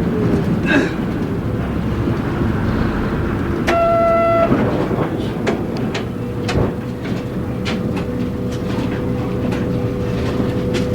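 Inside a Toho Kotsu (Kushiro Bus) route bus on the move: a steady engine drone with body and window rattles. A short pitched beep sounds about four seconds in, and a steady whine joins the engine sound from about halfway through.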